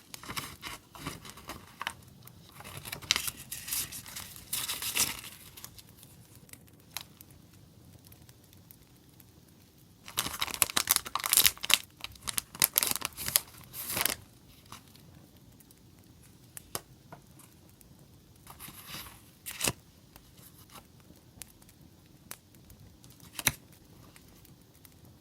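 Paper stationery and its packaging being handled and unwrapped: crinkling, rustling and tearing paper in three bursts, the loudest in the middle, with scattered sharp crackles and a faint campfire crackle underneath.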